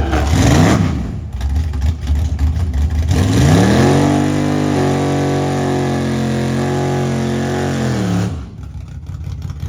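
Car engine revving: a short blip near the start, then a climb to high revs held steady for about four seconds before dropping back sharply.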